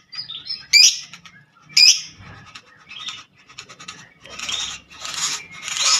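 Wild songbird calling: two loud, sharp calls about a second apart near the start, then a run of quicker, softer notes that turn harsher and raspier toward the end.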